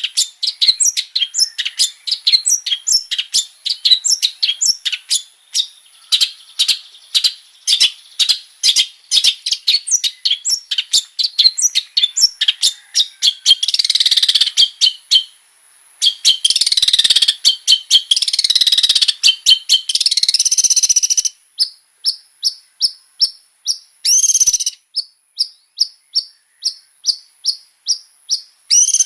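Long-tailed shrike (cendet) singing in full voice: fast runs of repeated chirps, a denser, harsher stretch of mixed mimicked phrases in the middle, then an even string of short chirps about four a second.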